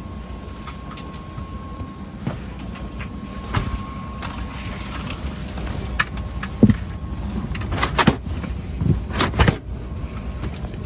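Steady air-conditioning hum inside a parked airliner's cabin during boarding, with a faint steady tone in the first half. Over it come several sharp knocks and clunks, the loudest about eight to nine and a half seconds in, like overhead bins and bags being handled.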